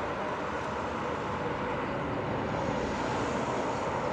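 Aircraft flying over: steady engine noise.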